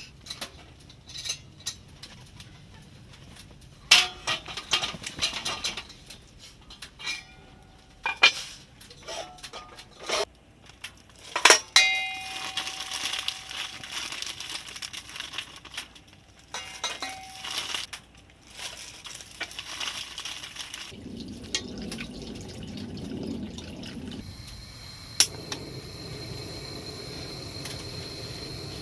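Cooking preparation for braised short ribs: dishes, glass and metal utensils clinking and knocking irregularly, one clink ringing out briefly, with a steadier rushing noise of liquid toward the end.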